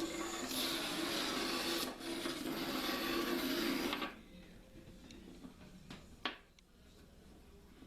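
Battery-and-neodymium-magnet 'train' running through a bare copper wire coil: a steady mechanical buzzing rattle of the magnets rubbing along the coil. It stops about four seconds in, and a single sharp click follows a couple of seconds later.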